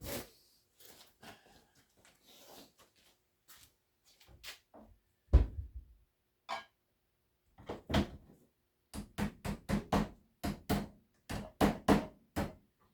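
A lid being knocked down shut onto a metal paint can. There is a heavy knock about five seconds in, then a run of about a dozen sharp knocks near the end, about three a second, with light handling clicks between.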